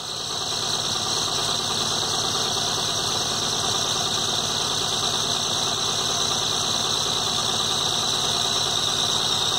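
Volkswagen Santana's 2.0 four-cylinder engine idling steadily.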